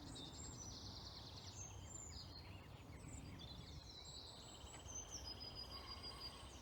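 Several small songbirds singing and calling in woodland, with high chirps and rapid trills overlapping, one fast trill running for a second or two midway. A faint low rumble lies underneath.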